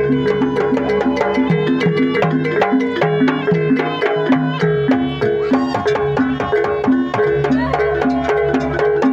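Javanese jaranan dance music: drums and struck percussion over held tones, with a pitched note repeating about twice a second in a steady rhythm.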